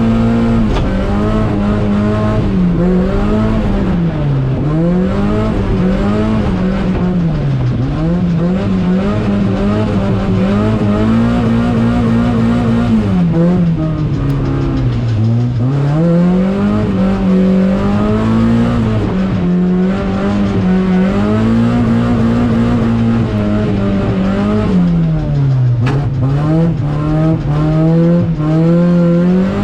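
Mazda MX-5 Miata's 1.6-litre four-cylinder engine revving hard while drifting on a wet track, the revs repeatedly dropping and climbing back up.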